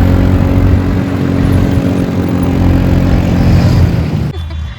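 A motor vehicle's engine running loudly and steadily close by, cutting off suddenly about four seconds in.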